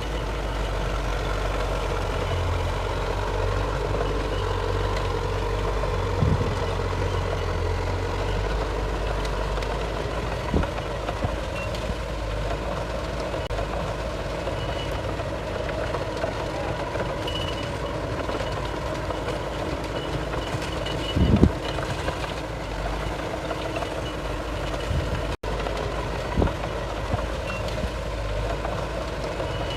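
Heavy diesel earthmoving machinery, a bulldozer and dump trucks, running steadily with a low rumble. A reversing alarm beeps faintly at times, and a few sharp knocks or clanks stand out, the loudest about two-thirds of the way through.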